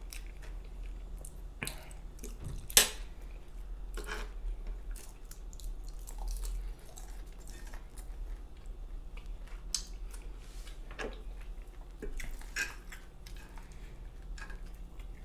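Close-miked chewing and wet mouth sounds while eating, with scattered short clicks of cutlery and dishes; the sharpest click comes about three seconds in.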